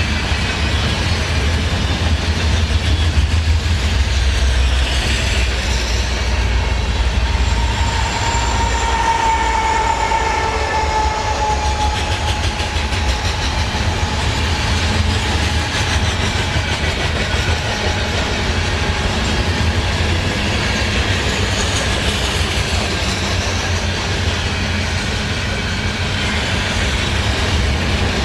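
CN freight train cars rolling past on the rails with a steady, continuous rumble, wheels clacking over the track, and a faint wheel squeal about a third of the way in.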